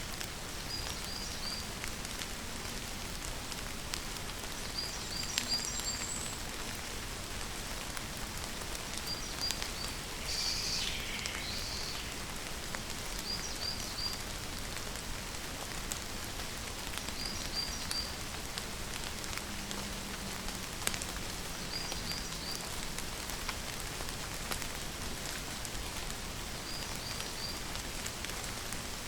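Steady rain falling, with individual drops ticking through it. A bird repeats a short run of three or four high chirps about every four seconds, with one louder, falling call a little after ten seconds in.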